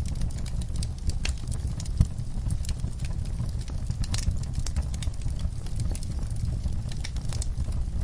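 Wood fire in a fireplace crackling, with many irregular sharp pops over a steady low rumble of flames and one louder pop about two seconds in.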